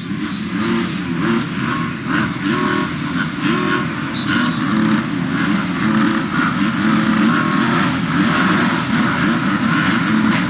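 A pack of motocross bike engines revving and racing together, many overlapping engine notes rising and falling over one another.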